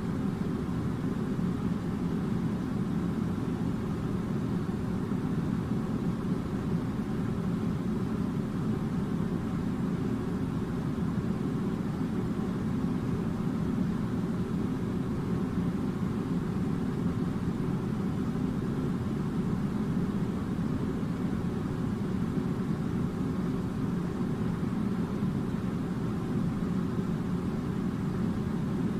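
Air conditioner running: a steady, low, even noise of blowing air, with no change in level.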